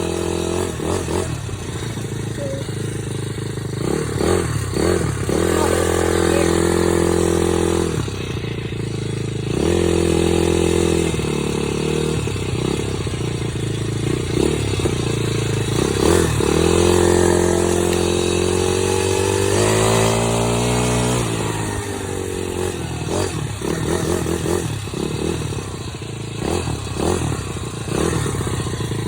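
Dirt bike engine running under way while being ridden, its revs climbing and dropping as the throttle opens and closes, with a long drop in revs followed by a climb about two-thirds of the way through. Rattles and knocks from the bike come and go over the engine.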